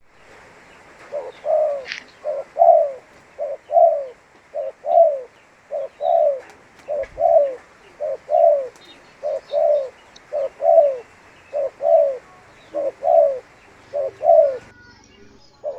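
Spotted dove (tekukur) cooing: a steady series of paired low notes, a short coo followed by a longer falling one, repeated about once a second with a brief pause near the end.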